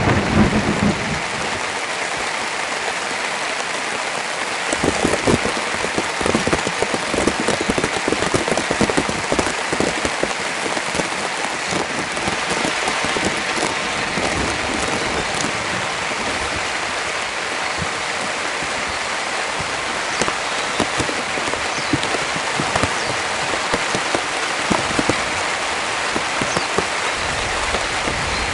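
Heavy, steady rain with a dense patter of drops hitting a surface, busier for several seconds after the start. The low tail of a thunder rumble fades out in the first second.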